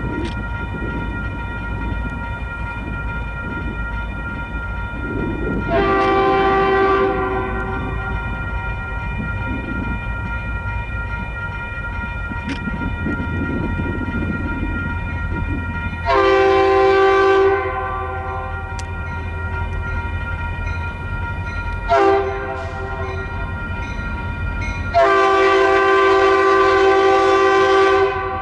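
Locomotive air horn sounding the grade-crossing signal, two long blasts, a short one and a long one, over the steady rumble of a moving train. A steady high-pitched ringing runs underneath.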